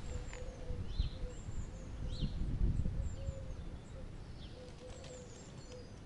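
Small birds chirping and calling in short bursts, over a low rumbling background noise that eases off after the first few seconds.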